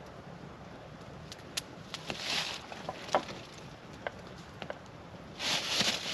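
A small campfire being tended: scattered sharp crackles and snaps of burning and breaking sticks, with two short breathy hisses, about two seconds in and near the end.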